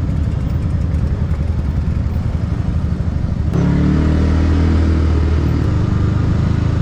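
Yamaha MT-15's single-cylinder engine through a Yoshimura aftermarket exhaust, ridden on the road. For the first half the note is choppy and uneven. About halfway through it turns strong and steady.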